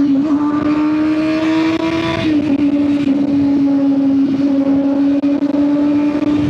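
Truck engine held at high revs, a loud steady drone whose pitch creeps up for about two seconds, dips slightly, then holds level.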